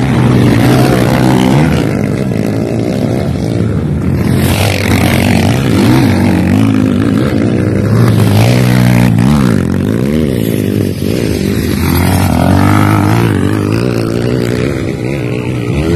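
Motocross dirt bike engines running and revving, their pitch rising and falling repeatedly as the bikes accelerate and ease off.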